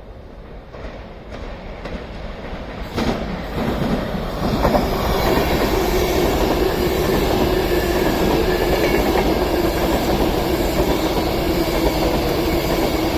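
Avanti West Coast Class 390 Pendolino electric train coming through the platform. It builds from a distant rumble to a loud, steady rush of wheels on rail with a steady hum, with a sharp knock about three seconds in.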